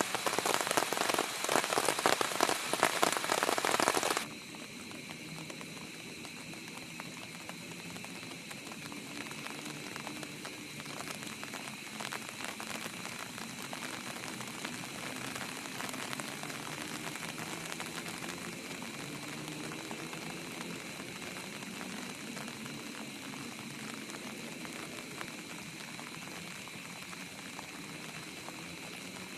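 Heavy rain pattering densely for the first four seconds or so, then cutting off suddenly to a much softer, steady hiss with a faint thin high tone.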